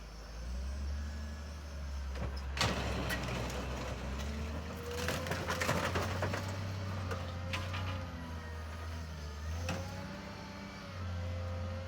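Heavy scrapyard machine's diesel engine running steadily with a wavering hydraulic whine, while a scrap car is handled. A sharp metal bang comes a couple of seconds in, then a burst of crunching and clanking metal around the middle, and a few more knocks later.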